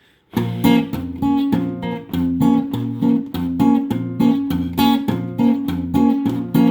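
Acoustic guitar strumming a song's instrumental intro in a steady rhythm, starting about a third of a second in.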